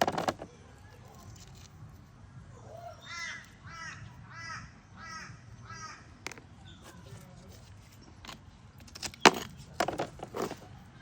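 A bird calls about six times in quick succession, roughly one call every half second. Near the end come a few sharp taps of a hard object on stone.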